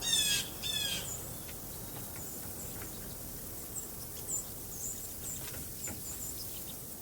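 Backyard songbirds calling: two loud, harsh calls in the first second, then short, thin, high chip notes scattered throughout over a steady hiss.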